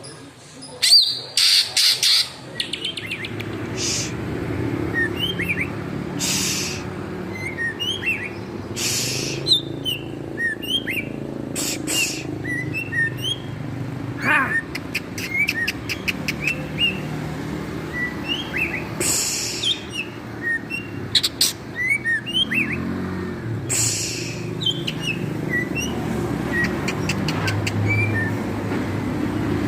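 White-rumped shama (murai batu) singing: a run of short whistled notes sliding up and down, broken every few seconds by loud harsh rasping bursts and quick clicking rattles. A steady low rumble sits underneath.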